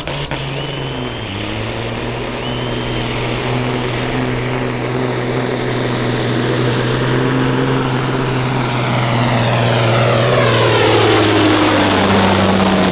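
Semi truck's diesel engine running hard under load while pulling the sled, with a steady high turbo whistle over it. It grows louder as the run goes on.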